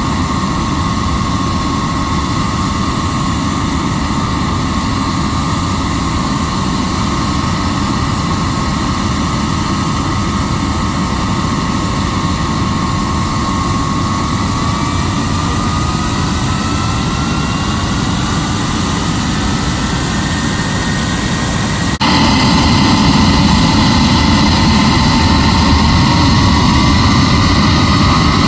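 Handley Page Victor's Rolls-Royce Conway turbofan engines running on the ground during an anti-deterioration engine run, a loud steady jet roar with a whine. About halfway through the whine begins to rise in pitch. About 22 s in the sound abruptly gets louder and brighter, and the whine keeps climbing.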